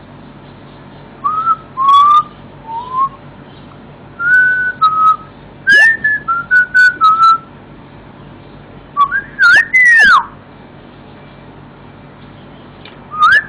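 A whistled tune: a run of short, clear notes stepping and sliding up and down, with a rising-and-falling swoop near ten seconds, then a pause.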